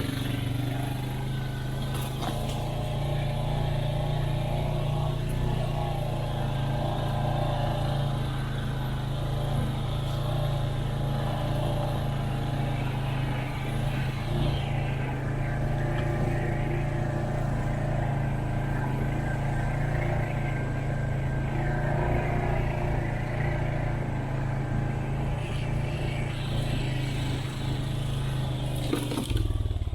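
Four-wheeler engine running steadily while riding, a constant drone with little change in pitch.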